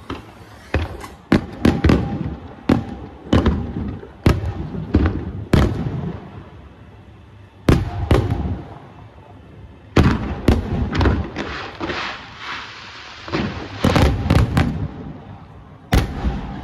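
Aerial fireworks shells bursting in a rapid, irregular volley of sharp bangs, each trailing a low rumbling echo, with clusters of quick bursts and brief lulls between them.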